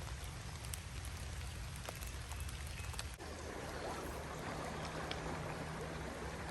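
Steady rain falling on a flowing creek, a constant watery hiss with scattered faint raindrop ticks.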